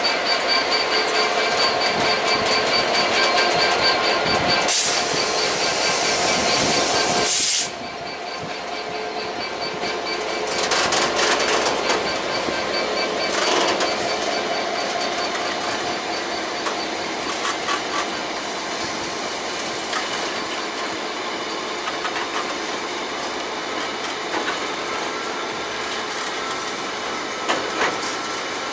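Train moving through a station, its wheels squealing in steady high tones over rolling noise, with a burst of hiss about five seconds in. The sound drops suddenly about seven and a half seconds in, and quieter train running noise with fainter squeal carries on.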